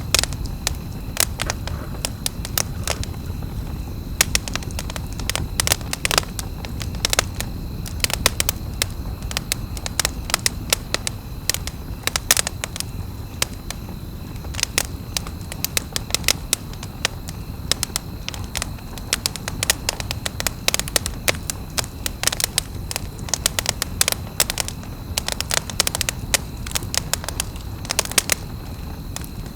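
Wood campfire crackling, with irregular sharp snaps and pops over a steady low rush of burning.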